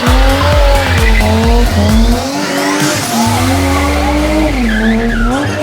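A car doing a burnout: its engine held at high revs, the pitch wavering up and down, with the tyres spinning and squealing. Dance music with a thumping beat plays under it for the first two seconds or so.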